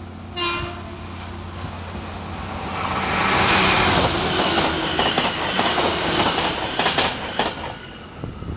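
A JR Kyushu 813 series electric train sounds a short horn blast about half a second in, then rushes through the station at high speed. The noise builds from about two and a half seconds in, with the wheels clattering over the rail joints, and falls away near the end as the train leaves.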